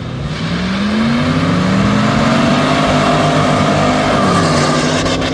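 Two Pontiac Firebirds launching off a drag-strip start line, engines revving hard and climbing in pitch under full acceleration, with one sharp drop in pitch about four seconds in as a gear is shifted, then climbing again.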